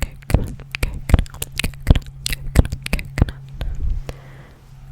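Close-miked ASMR mouth sounds: a quick, irregular run of wet clicks and pops, over a low steady hum.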